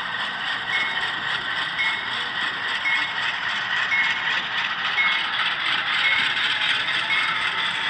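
Model train running on a layout's track, a steady mechanical clatter and rattle, with a short high beep repeating about once a second.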